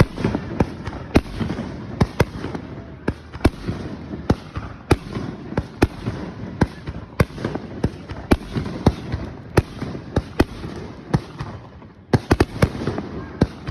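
Fireworks going off in a rapid, irregular string of sharp bangs, about two or three a second, over a constant rumble. A short lull near the end is followed by a quick cluster of bangs.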